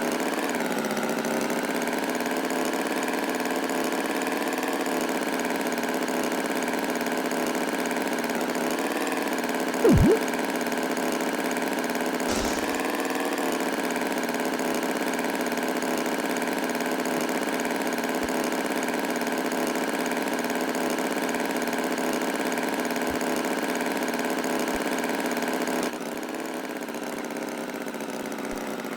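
Tractor engine running steadily at idle, with an even drone. About ten seconds in there is a brief, louder falling swoop, and the engine runs a little quieter for the last few seconds.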